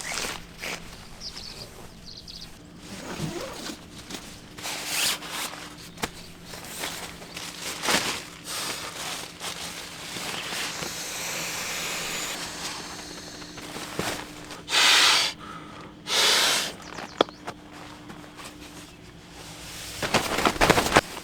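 Someone moving about and handling camping gear: footsteps, rustling and scattered knocks and clicks, with two loud rushing noises about two-thirds of the way through and a cluster of louder knocks near the end.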